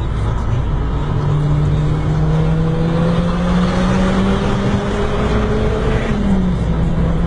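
Turbocharged car engine pulling under load, heard from inside the cabin, its pitch climbing slowly as the car speeds up. About six seconds in the pitch drops quickly, as on a gear change or lifting off.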